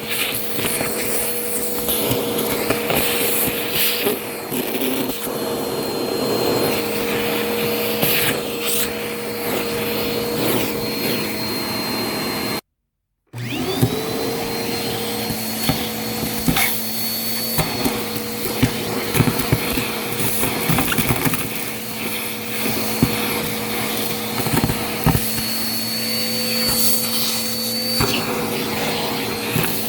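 Vacuum cleaner running with a steady whine while crunchy debris clicks and crackles as it is sucked up. About halfway the sound cuts out for half a second, then the motor whine rises back up to speed and the crunching continues.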